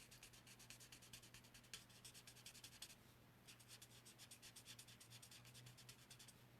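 Faint, quick scratching of an alcohol-ink blending marker's tip stroking back and forth on cardstock while colouring, with a brief pause about three seconds in.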